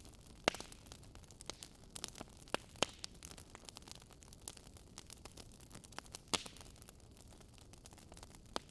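Wood fire crackling, with sharp pops at irregular intervals over a faint steady hiss.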